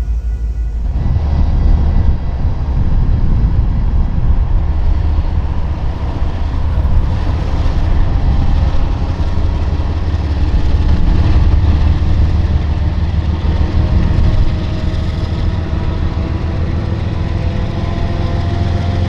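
Diesel freight locomotives running steadily with a deep engine hum as the train moves, setting in about a second in.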